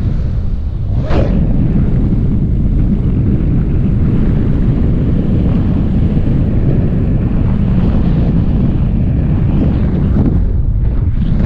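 Wind from a paraglider's flight buffeting the microphone: a loud, steady low rumble, with a brief sharp sound about a second in.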